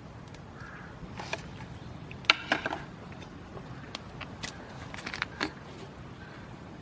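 Scattered sharp clicks and light knocks, the loudest about two seconds in and a few more near the end, over a steady low rumble.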